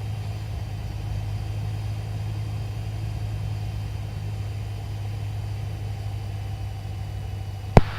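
Cessna 172's four-cylinder piston engine droning steadily in cruise, heard as a low, even hum through the cockpit intercom. A single sharp click comes near the end.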